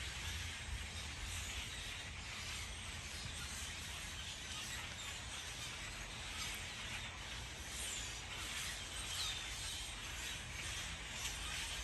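Steady outdoor background hiss and low rumble, with a few faint, brief bird chirps in the second half.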